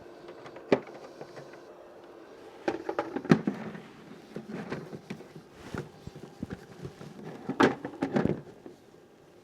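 Irregular knocks and clunks over a faint steady hum, loudest in a cluster about three seconds in and again near the end.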